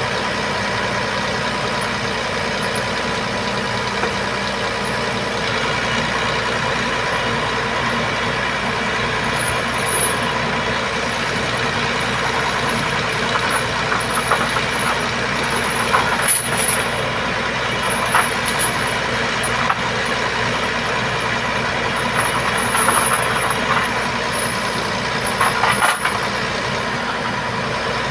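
Heavy truck's diesel engine running steadily. From about ten seconds in there are short high-pitched chirps and a few clicks.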